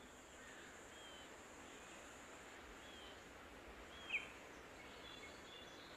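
Faint forest ambience: a steady thin high insect drone under a soft hiss, with a few short bird chirps, the loudest a quick falling chirp about four seconds in.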